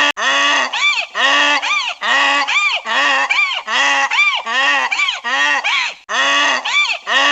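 Domestic goose honking over and over, short loud calls that rise and fall in pitch, about two a second.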